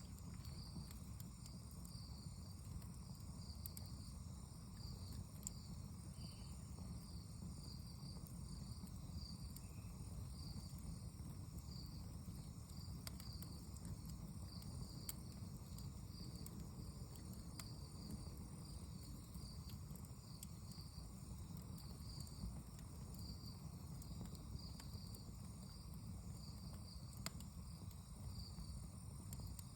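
Wood fire burning with scattered small crackles and pops, under a steady chorus of insects chirping in rhythmic high-pitched pulses.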